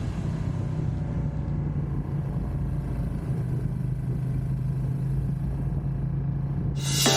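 Motorcycle engine running steadily with a low, even hum; music comes in abruptly near the end.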